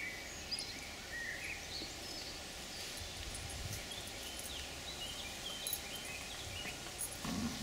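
Quiet garden ambience: faint, scattered bird chirps over a low background hum, with a brief low sound near the end.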